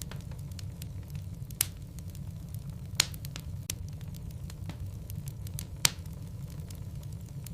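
Wood fire of burning logs crackling in a fireplace: a steady low rumble of the flames with frequent small ticks and pops, and three louder sharp cracks at about one and a half, three and six seconds in.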